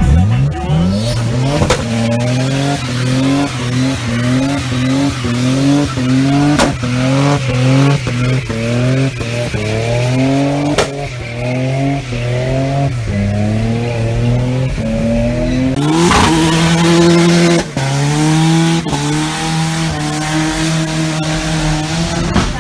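Nissan 240SX drift car's engine revving hard and being blipped up and down again and again, about one and a half rises a second, with tires squealing. Three sharp pops come through, and a burst of louder rushing noise comes about sixteen seconds in.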